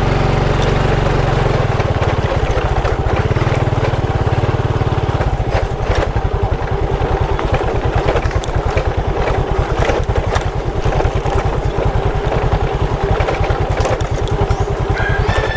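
Motorcycle engine running while riding, a steady rapid low pulsing from the exhaust; the engine note shifts about five seconds in.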